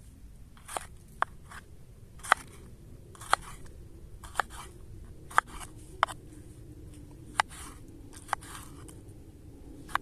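Knife cutting through crisp food, a sharp crunchy cut roughly once a second at an irregular pace.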